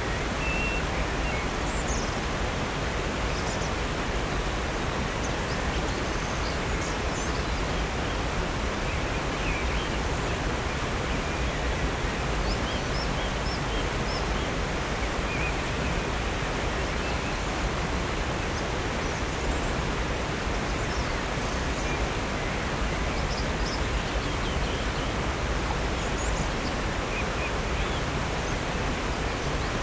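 Steady rush of falling water from a waterfall and creek, with brief, faint high bird chirps scattered over it.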